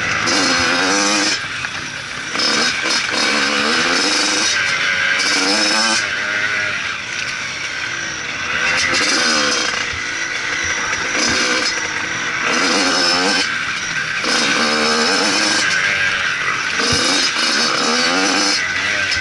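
Motocross bike engine revving hard and easing off over and over, its pitch climbing then dropping every second or two as the rider works the throttle, with a steady hiss of wind and rushing air.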